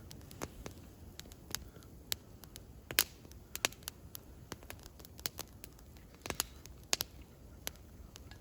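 Wood campfire crackling: irregular sharp pops and snaps, the loudest about three seconds in and again near seven seconds.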